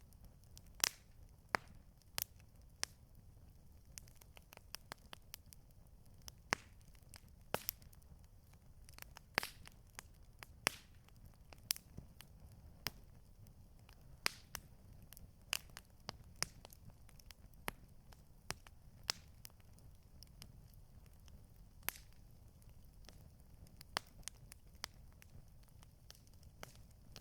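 Campfire crackling: irregular sharp pops and snaps, a few a second, over a low steady rumble.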